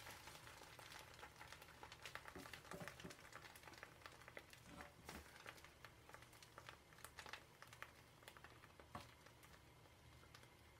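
Faint crackling of an egg omelette frying in oil in a pan, with scattered small pops.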